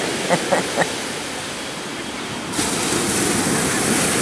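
Ocean surf washing on the beach with a steady rushing hiss. A wave breaks about two and a half seconds in and makes the rush louder. Three short calls come in the first second.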